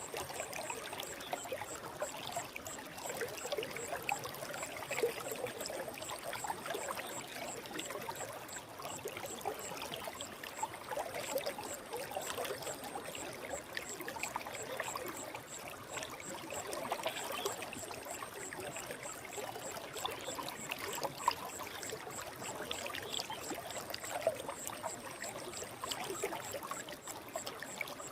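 Forest stream flowing steadily.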